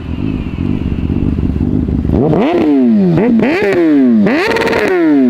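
Kawasaki Ninja ZX-14R's inline-four engine, a low rumble at first, then revved several times from about two seconds in, the pitch rising sharply and falling back after each blip of the throttle.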